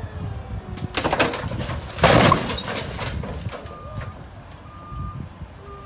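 A loud rushing noise about two seconds in, then three short, level electronic beeps about a second apart.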